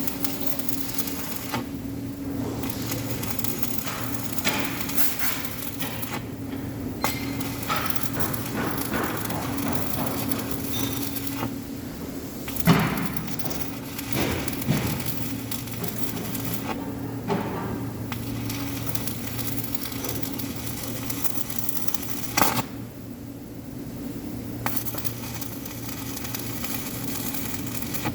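Electric arc welding crackling and sizzling in runs, stopping briefly a few times, over a steady electrical hum. A few sharp metallic clinks stand out, the loudest about halfway through and again near the end.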